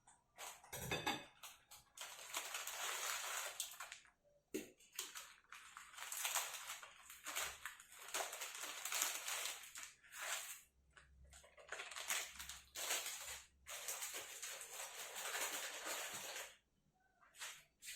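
Plastic instant-noodle packaging crinkling and crackling as it is handled, in a series of bursts with short pauses between them.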